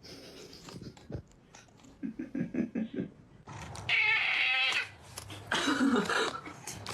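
A pet animal making vocal sounds: a quick run of short low grunts, then two louder, longer rough cries, the second falling in pitch.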